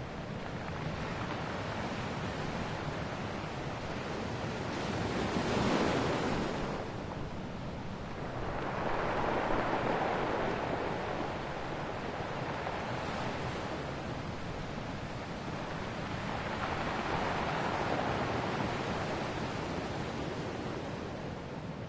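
Ocean surf: a steady rush of waves that swells louder three times as waves break, about six, ten and seventeen seconds in.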